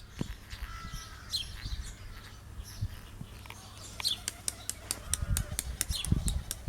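Birds chirping in short falling calls over a steady low wind rumble, with a run of quick sharp clicks, about five a second, in the second half.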